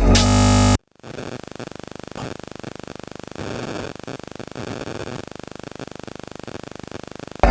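Electronic house music cuts off with a short stutter and a brief dropout. Then comes a steady static hiss with fast, even crackle and a faint high whine, swelling and fading in patches.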